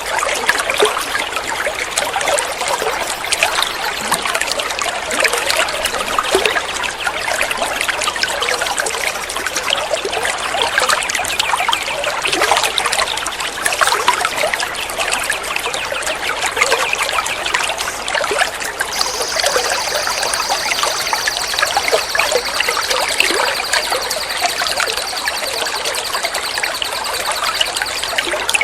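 Water trickling and splashing steadily, as from a small fountain or running stream. About two-thirds of the way in, a steady high-pitched tone joins it.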